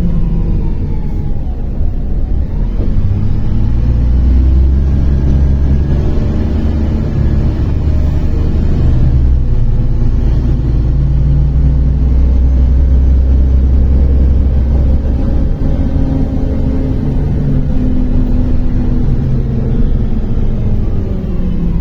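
MAZ-103 city bus under way, heard from inside the passenger cabin: a steady engine and drivetrain rumble, heaviest from about three to fifteen seconds in. Whining tones slide down and back up in pitch near the start and again near the end as the bus changes speed.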